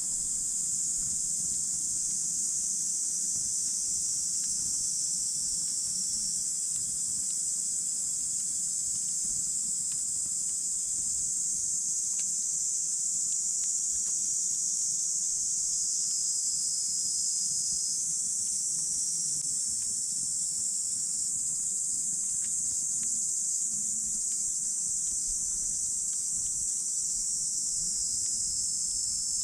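A steady, high-pitched chorus of insects chirring without a break, with a few faint crackles and ticks from the campfire.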